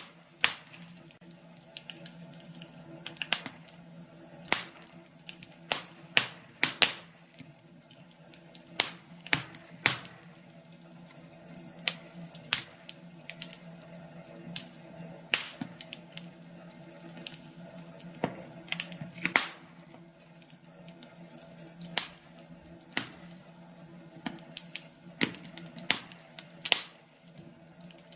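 Firewood burning and crackling: irregular sharp pops and snaps, sometimes several in quick succession, over a faint steady hum.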